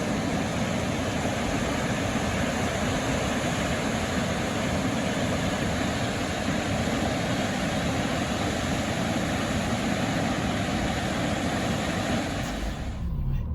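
Waterfall's steady rushing noise of falling water, which cuts off abruptly near the end.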